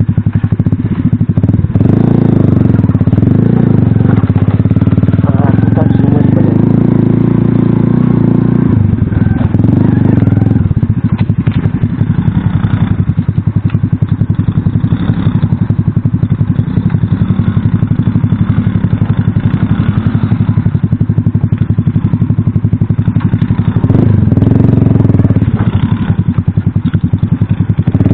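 Single-cylinder four-stroke engine of an Alpha moped running under load on the move, its note rising and falling with the throttle.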